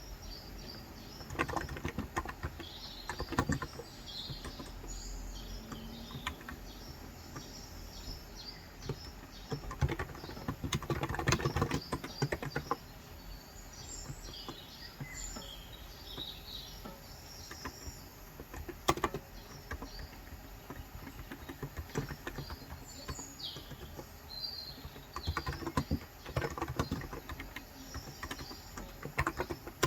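Typing on a Cox Endeavor electro-capacitive (Topre-style) tenkeyless keyboard with 35 g switches, in several short bursts of keystrokes with pauses between. Small birds chirp in short high calls throughout.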